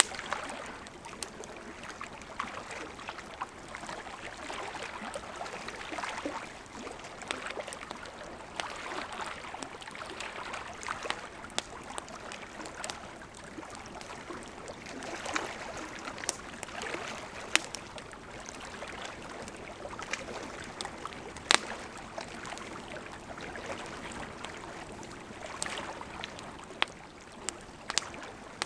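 Burning wood in a campfire: a steady hiss of flames that swells and eases, with frequent sharp crackles and pops, a couple of them louder past the middle.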